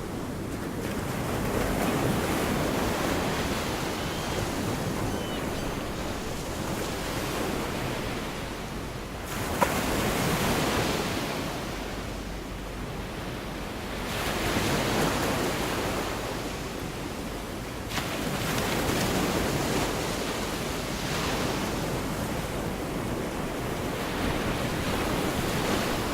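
Gulf of Mexico surf: small waves breaking and washing up the beach, swelling and fading every few seconds, with some wind on the microphone. Two brief sharp clicks, about ten and eighteen seconds in.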